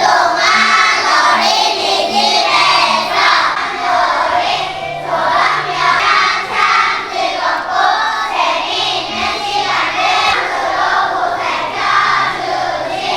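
A group of young children singing a song together to a musical accompaniment with a steady, note-by-note bass line.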